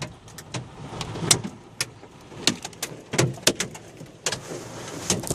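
Hail striking the roof, body and windows of a Pontiac Aztek, heard from inside the cabin: irregular sharp hits, several a second, over a faint steady hiss.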